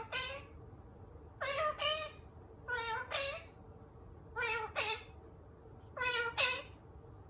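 Indian ringneck parrot calling: a short two-note call, each note with a slight pitch fall, repeated about every one and a half seconds, five times in all.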